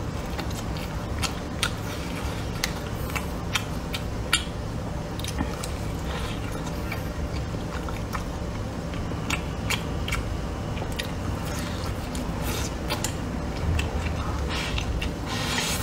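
Close-up chewing of a mouthful of fried rice with meat and soybeans: steady chewing with many short, sharp wet mouth clicks and smacks, over a low steady hum.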